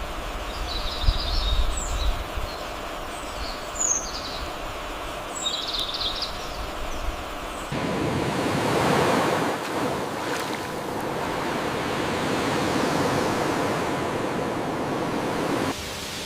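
Outdoor ambient noise. A low rumble carries a few short, high chirps; about eight seconds in it cuts abruptly to a louder, steady rushing noise.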